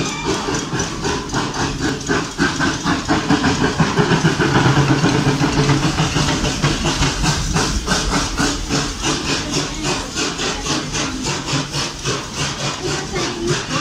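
Serengeti Express park train passing close by: the locomotive's engine running with a hiss and a steady clatter of about four beats a second, continuing as the passenger cars roll past.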